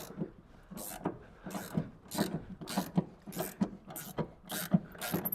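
Ratchet spanner clicking in repeated strokes, about two to three a second, as a rear suspension bolt is wound out.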